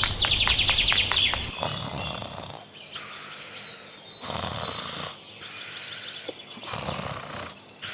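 Bird chirps, a rapid falling trill at the start, followed by a series of short hissing noise bursts about a second long each.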